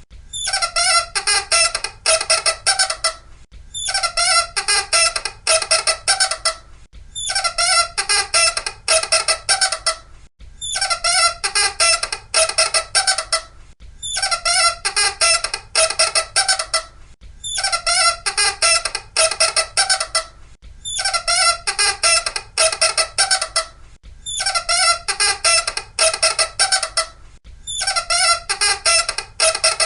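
Loud squeaking in repeated bursts of rapid squeaks, each burst about three seconds long with a short gap between, nine times in an even loop.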